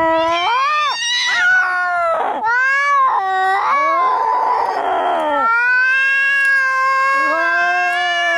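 Angry cats caterwauling: long, drawn-out yowls that waver up and down in pitch, with a hiss about halfway through and two voices overlapping near the end, the sound of a cat fight or standoff.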